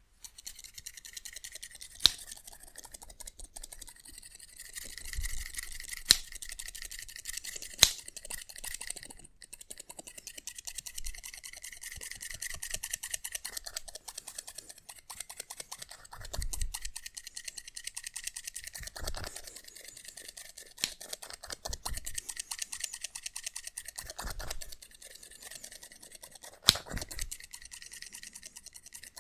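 Haircut scissors snipping very rapidly and continuously, a dense stream of small metallic clicks. A few sharper, louder clicks and occasional soft low thumps come through.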